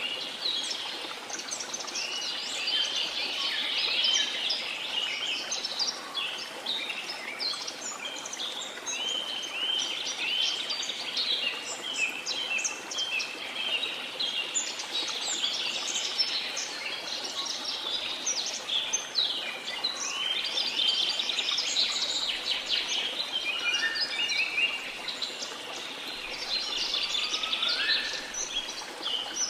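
A dense chorus of many birds chirping and singing at once, quick high chirps and short sliding phrases with no let-up. Underneath, a steady rushing noise of falling water.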